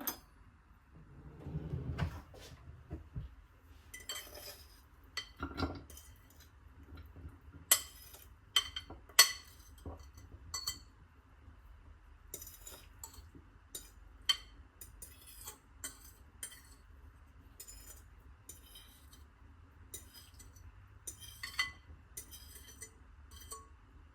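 Kitchen utensils, dishes and glass clinking and knocking: a scattered string of short, sharp clinks, with the loudest few about eight to nine seconds in.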